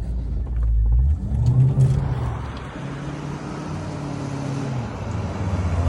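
Range Rover engine running under throttle as it is driven off-road. A heavy low rumble over the first second and a half gives way to a steadier engine note.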